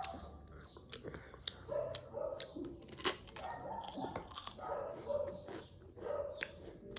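Close-up eating sounds: crunching and chewing of crispy street snacks with sharp mouth clicks, the loudest crunch about three seconds in, alongside several short mid-pitched voice-like sounds.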